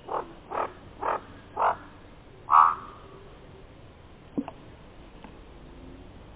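An animal calling in a run of five short calls about half a second apart, the last one longer and loudest, followed by a single sharp click a couple of seconds later.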